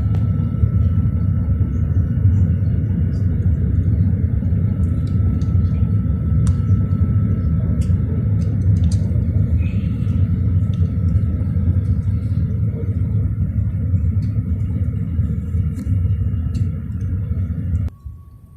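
Airbus A380's four jet engines at takeoff power: a steady low rumble with a faint steady whine above it, dropping away abruptly near the end.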